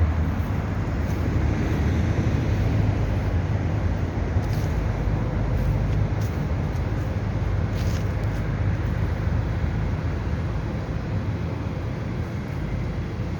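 Steady low rumbling background noise, with a couple of faint ticks.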